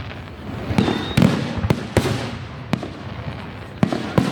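Aerial fireworks display: a rapid, irregular series of sharp bangs from bursting shells, with a rumbling haze between them.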